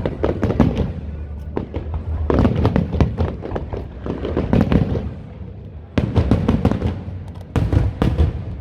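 Aerial fireworks going off in a rapid series of bangs and crackles, with fresh loud bursts about six and seven and a half seconds in.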